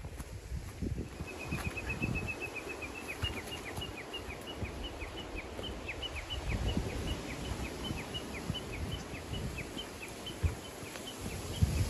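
A bird calling in a long, regular series of short, high, falling notes. It starts as a quick run about a second in, then settles to about two or three notes a second. Underneath are a hiker's footsteps on a dirt trail, heard as irregular low thumps.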